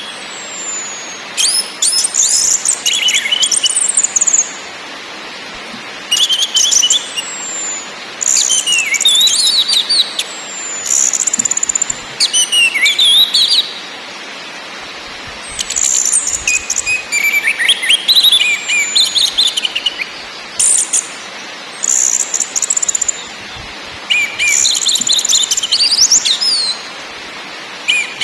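Orange-headed thrush (anis merah) singing: a run of phrases of varied high whistles, slurred notes and rapid chattering notes, each a second or two long with short pauses between.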